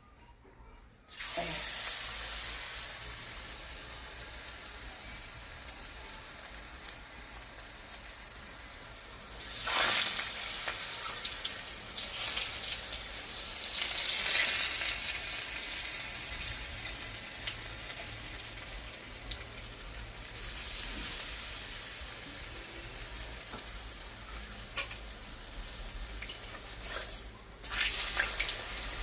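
Water spinach (kalam saag) leaves in gram-flour batter deep-frying in hot oil as pakodas. The sizzle starts suddenly about a second in and flares louder several times, around ten, fourteen, twenty and twenty-eight seconds in.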